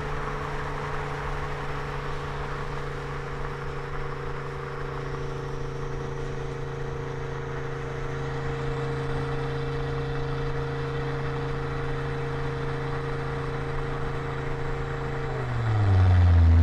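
2006 Volvo S60R's turbocharged inline-five with a custom Eurosport exhaust and 3-inch downpipe, running at a steady engine speed with an even drone. Near the end the pitch slides down and a much louder, lower steady sound cuts in.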